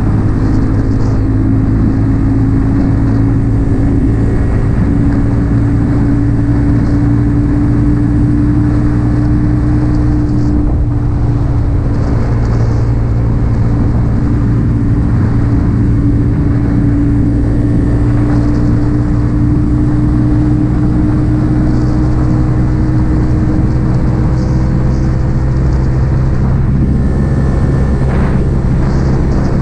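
Yamaha XSR 155's single-cylinder engine running steadily through an aftermarket M4 exhaust while cruising. The engine note drifts gently up and down in pitch.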